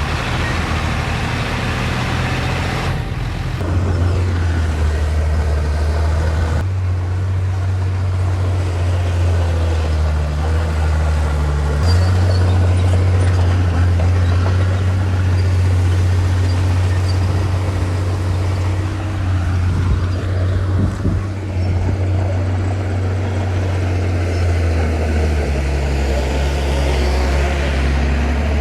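Crawler bulldozer's diesel engine running with a low drone, its pitch stepping up and down every few seconds as the load changes, with a few knocks about two-thirds of the way through.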